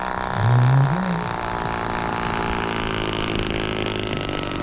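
Engine of a radio-controlled PT-17 Stearman model plane running steadily in flight, its pitch drifting slightly. A brief voice sounds about half a second in.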